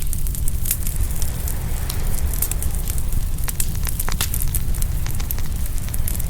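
Open wood fire crackling and popping, many sharp snaps scattered irregularly through it, over a steady low rumble.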